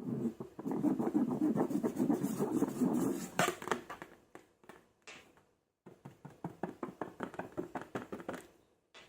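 Slime being squeezed and worked by hand, a quick run of sticky clicks and crackles that thins out, pauses, then starts again before stopping near the end.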